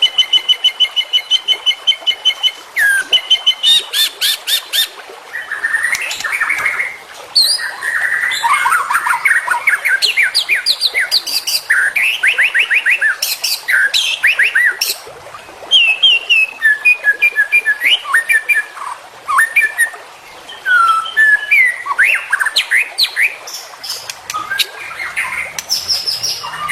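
White-rumped shama (murai batu) singing a loud, continuous, varied song: runs of rapid repeated notes, trills and short whistled phrases, with brief pauses between the runs. It is the 'full isian' style, packed with phrases mimicked from other birds.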